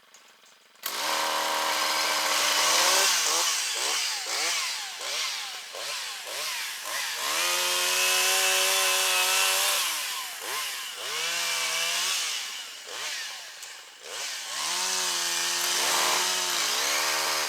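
A gas two-stroke chain saw starts up about a second in. It is revved up and down repeatedly, with two longer stretches held at full throttle as it cuts. The operator thinks its chain may need sharpening.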